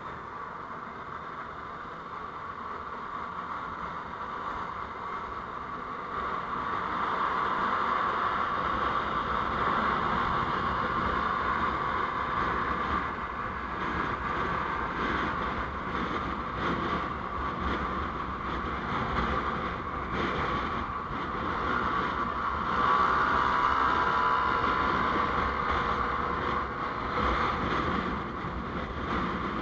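Steady road noise of a moving vehicle, a rushing mix of engine, tyres and wind, growing louder about six seconds in and swelling again a little past the twenty-second mark.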